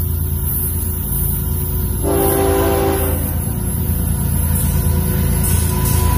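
Diesel freight locomotive running with a steady low rumble, sounding its horn in one short blast of about a second, about two seconds in.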